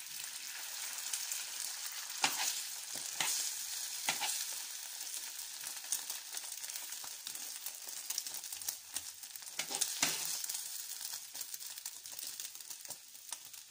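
Egg-soaked bread slices frying in oil in a non-stick pan: a steady sizzle with a few sharp crackles.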